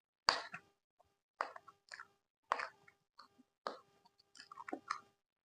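Close-up eating sounds: a person chewing and biting food, wet, crunchy mouth sounds coming in sharp bursts about once a second, quicker near the end.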